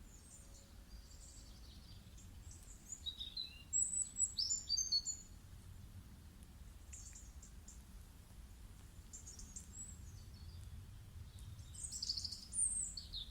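Birds chirping and singing over a faint steady low hum, with a louder run of quick chirps about four seconds in and another near the end.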